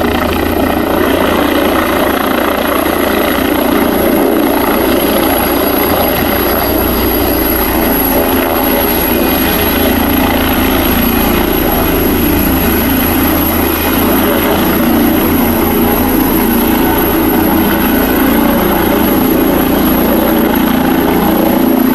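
Air ambulance helicopter running close by: a steady, loud turbine and rotor sound with a rapid rotor beat.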